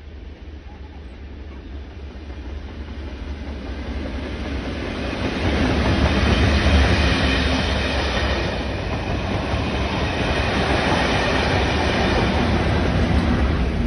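A diesel-hauled train of yellow test coaches approaching and passing close by: engine rumble and wheel-on-rail noise grow louder over the first six seconds, then hold steady as the coaches and the rear locomotive run past.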